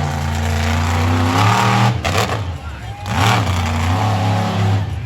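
Monster truck engine revving hard, easing off about two seconds in, then revving up again before cutting back near the end.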